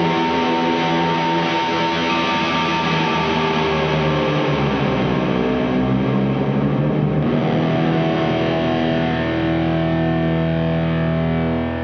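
Electric guitar distorted by a rat-style drive pedal into a Caline Barn Owl reverb pedal set to a lot of reverb, playing held chords that wash into a long, shoegazy reverb tail. The chord changes about four and a half seconds in and again about seven seconds in.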